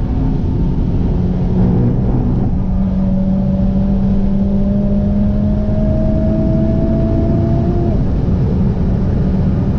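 Honda Civic Type R's 2.0-litre turbocharged four-cylinder engine accelerating hard, heard from inside the cabin. Its pitch climbs slowly for several seconds as the car gathers speed in a high gear, then dips slightly about eight seconds in.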